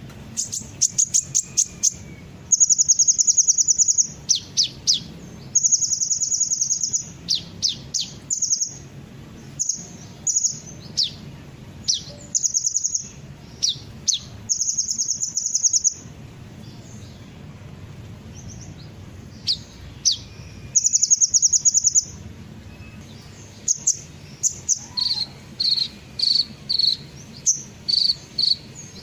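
Sunbird ('kolibri') song: high, fast buzzy trills lasting about a second each, alternating with short sharp chirps and quick down-slurred notes, over a faint low hum.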